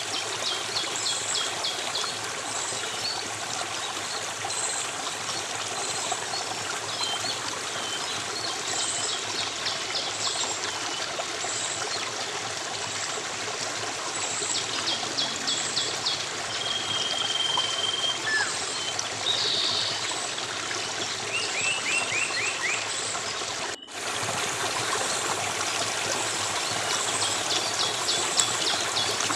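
A stream running steadily, with wild birds calling over it: a high, short note repeated about once a second, bursts of rapid trills and a few whistles. About three-quarters of the way through, the sound drops out for an instant.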